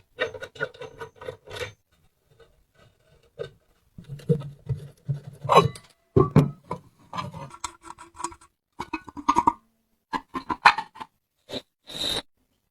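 Parts of an old electric lamp being handled and worked by hand: a string of short clicks, scrapes and rubbing, with brighter clinks near the end.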